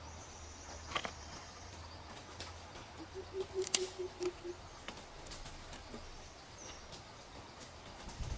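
Quiet outdoor ambience with scattered sharp clicks and knocks. A thin, high, steady whistle lasts about the first two seconds, and around the middle there is a short run of about seven low, evenly spaced bird notes.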